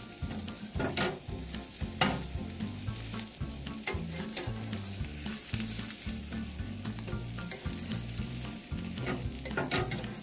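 Adai batter crepe frying in oil on a hot tawa, with a steady sizzle and a few sharp taps about one and two seconds in and again near the end.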